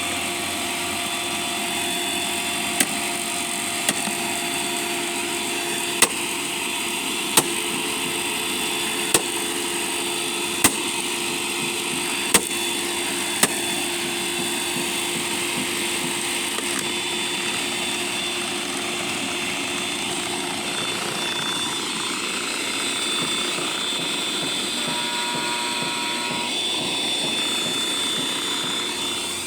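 Eureka Boss Super Light bagless upright vacuum cleaner's motor running steadily with a high whine, with its brush roller being jammed. Eight sharp clicks or knocks come at uneven intervals of one to two seconds through the first half.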